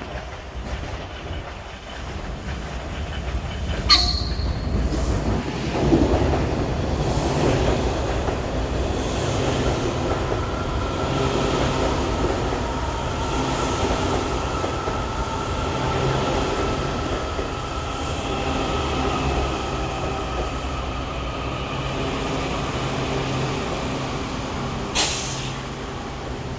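Southeastern metro electric train rolling in, its wheels rumbling under a powerful, steady screech that falls slightly in pitch as it slows. There is a short sharp squeal about four seconds in and another near the end.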